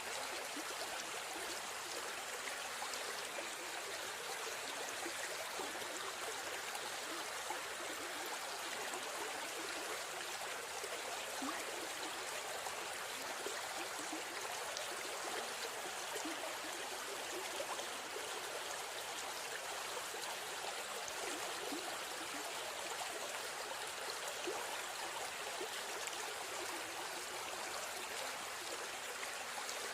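River stream flowing, a steady rushing and trickling of water.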